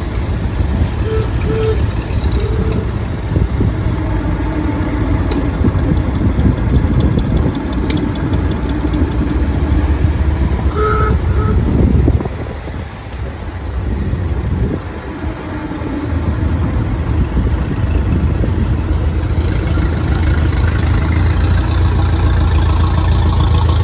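Vehicle engine running with a steady low rumble while riding along, easing off for a few seconds about halfway before picking up again. A few short tones sound near the start and again about eleven seconds in.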